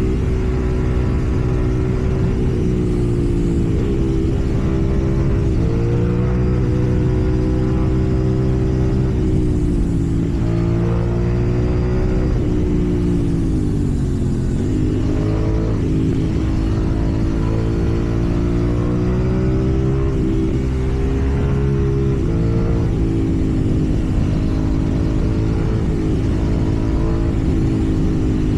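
KTM Duke 790's parallel-twin engine running under way, its note dipping and climbing again several times as the rider works the throttle through traffic.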